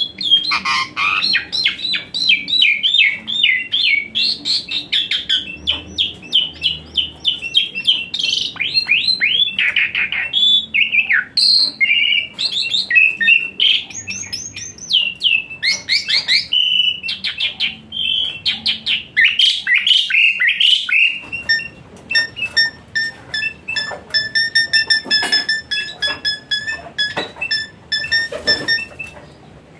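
Asian pied starling (jalak suren) singing a loud, fast run of sweeping, chattering notes. About 21 seconds in, the song changes to a quick, steady series of short, clear pitched notes repeated evenly.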